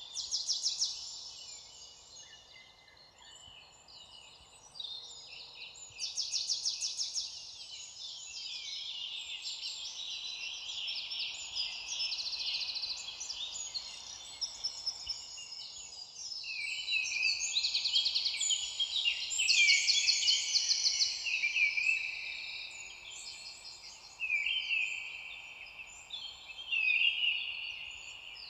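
Several small songbirds singing at once, overlapping high chirps, warbles and rapid trills, thinner for a few seconds early on and busiest about two-thirds of the way through.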